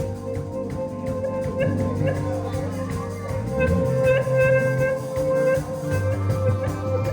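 Instrumental band music with no singing: a bass line and drum kit under held, ringing tones.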